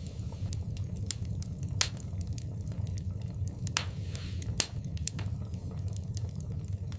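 Wood fire in a fireplace crackling, with sharp pops scattered throughout and the loudest about two seconds in and just past the middle, over a steady low rumble of the flames. A short hiss comes a little after the middle.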